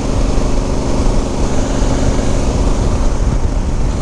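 Honda Africa Twin DCT's parallel-twin engine running steadily while riding, under a constant rush of wind noise on the microphone.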